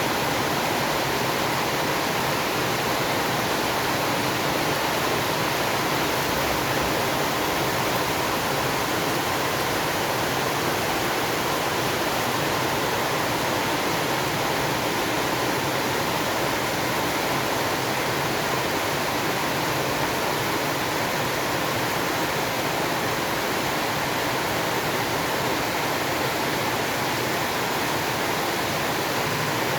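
Steady heavy rain, an even hiss that holds without change.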